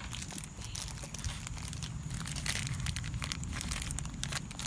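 Crinkling and rustling of toy packaging being handled, with irregular crackles throughout.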